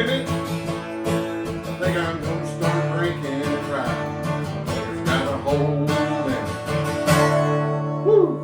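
Instrumental music with no singing: guitar chords struck in a steady rhythm. The last chord, about seven seconds in, is left ringing.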